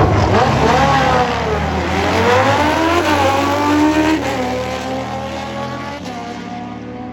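Drag racing motorcycle accelerating hard down the strip, its engine note climbing, dropping and climbing again within the first four seconds, then holding steadier and fading as it goes away.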